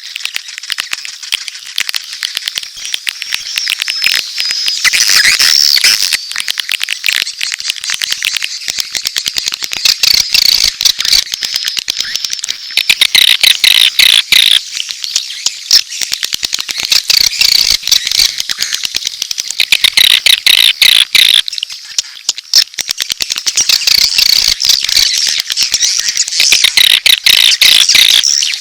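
Swiftlet lure recording: a dense, loud twitter of rapid chirps and clicks from a swiftlet colony, mixing adult mating calls with chick calls, swelling and easing every few seconds.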